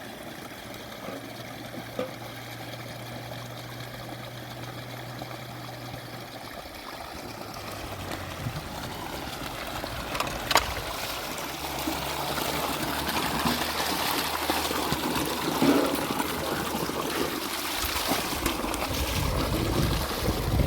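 Water trickling and splashing, growing louder from about eight seconds in, with a few sharp knocks.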